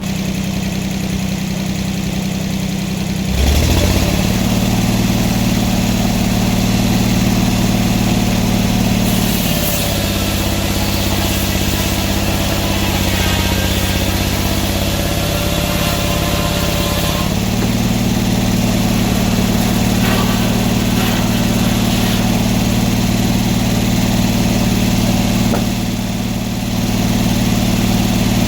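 Sawmill engine running steadily. It picks up speed about three seconds in, its note sinks lower between about ten and seventeen seconds in while a hiss joins above it, and it briefly eases off near the end.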